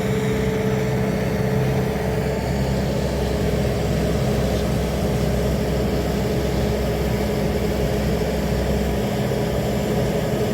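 A heavy engine running steadily at low speed, a low drone with a constant higher hum over it, while a pallet of about a ton is lowered into a pickup's bed.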